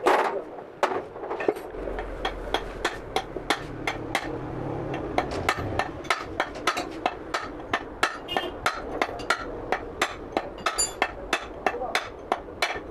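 Hammer blows on a manual car gearbox, a long run of sharp metallic knocks about three a second, as the gearbox is knocked apart to get at its bearings.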